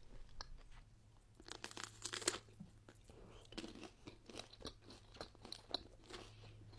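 Close-miked chewing of crisp fresh fruit, with irregular wet crunches that are busiest around two seconds in. A faint steady low hum sits underneath.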